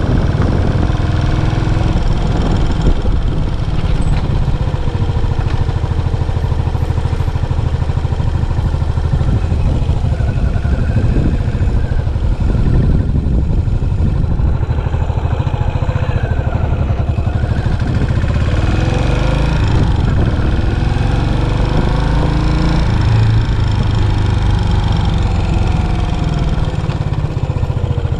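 Yamaha SR400's single-cylinder four-stroke engine running through its stock muffler, a steady low pulsing exhaust note.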